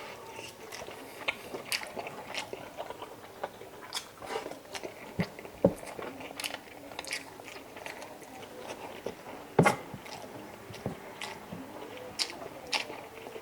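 Close-up chewing and biting of chicken adobo, with irregular sharp mouth clicks throughout and one louder click about two-thirds of the way through.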